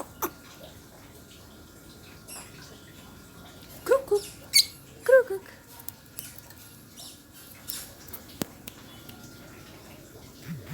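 Two short animal calls about four and five seconds in, with a brief high chirp between them and a few faint clicks over a low background hiss.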